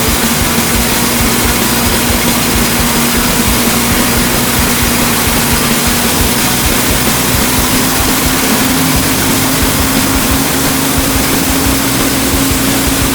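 Ford industrial engine running steadily, driving a homemade band sawmill. A constant drone, with a hum that rises slightly in pitch partway through.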